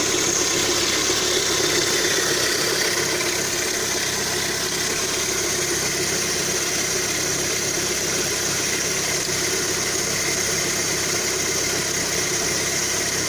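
Lada Kalina 2's VAZ-21126 engine idling steadily while still warming up. No clear knock stands out; the lifter tick the owner is listening for is said to be barely there until the engine is hot.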